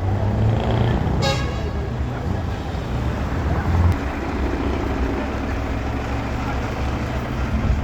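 Truck engines running with a steady low rumble, and one short horn toot about a second in.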